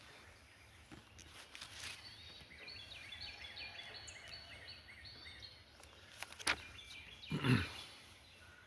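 Wild birds singing, with one bird repeating a run of short high notes through the middle of the clip. Near the end there is a sharp click, then a brief lower sound.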